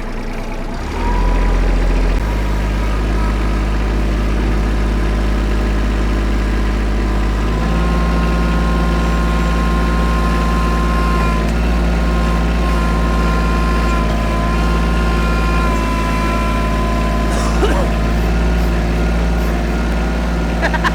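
Kubota tractor's diesel engine running as the front-end loader digs into a mulch pile; the engine picks up about a second in and rises again about halfway through, with a steady high whine over the engine note.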